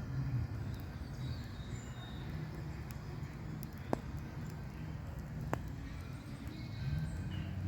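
Campfire crackling, with two sharp pops about four and five and a half seconds in, over a low steady rumble; faint bird chirps come and go.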